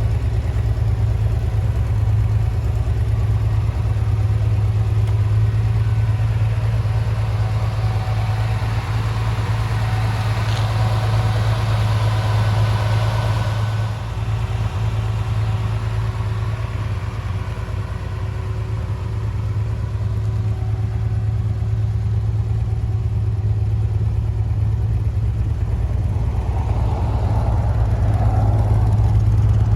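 Modified 1977 Datsun 280Z engine idling steadily while warming up after a cold start.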